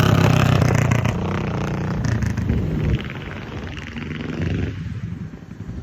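A motor vehicle passing by on the street. Its engine is loudest at the start, then drops off after about three seconds and fades.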